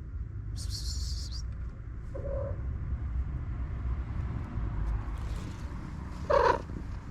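Cats meowing: a short meow a couple of seconds in and a louder one near the end, over a steady low rumble. There is a brief burst of high hiss about a second in.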